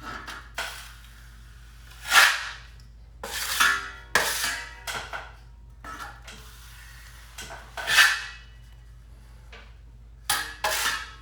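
Steel drywall knife scraping joint compound across a ceiling patch during a skim coat, in a series of separate swishing strokes with light metallic clinks of the blade.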